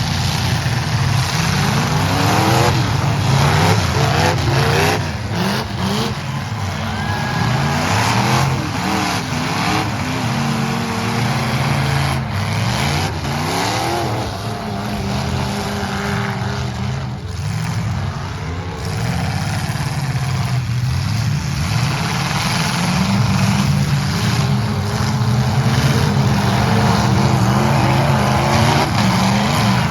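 Several demolition-derby truck engines running loud and revving up and down at the same time, with a few sharp bangs along the way.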